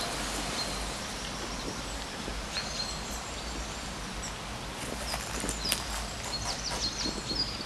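Small birds chirping over a steady rushing background noise. A single chirp comes about two and a half seconds in, and the calls grow busier over the last couple of seconds.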